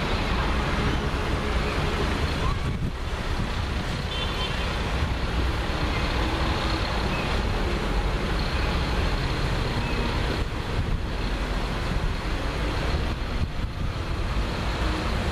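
Tractor engines running steadily, a continuous low rumble without pauses.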